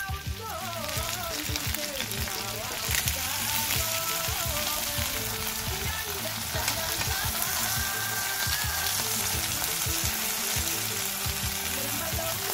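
Chicken pieces sizzling as they fry in oil in a pan: a steady sizzle that gets louder about three seconds in.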